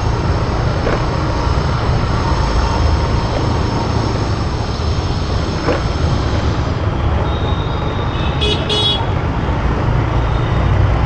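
Steady low rumble of road traffic and wind heard from a moving motorcycle, with a vehicle horn honking twice in quick succession about eight seconds in.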